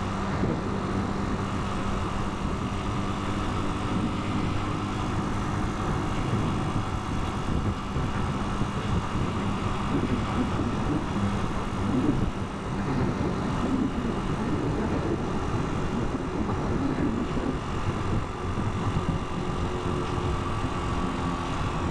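Italika 250 motorcycle's engine running steadily on the move, a constant drone mixed with rushing air and road noise.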